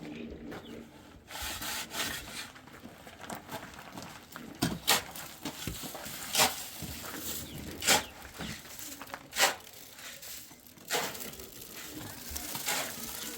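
A metal hand tool scraping through wet cement mortar in regular strokes, about one every second and a half.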